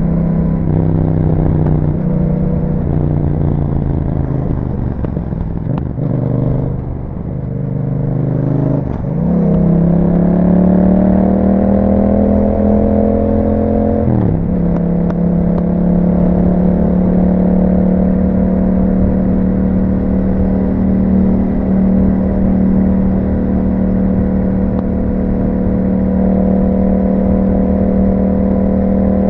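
Yamaha MT-07's parallel-twin engine through an Akrapovic exhaust while riding. The revs change and briefly drop off in the first several seconds, climb steadily, fall sharply with an upshift about halfway through, then hold at a steady cruise.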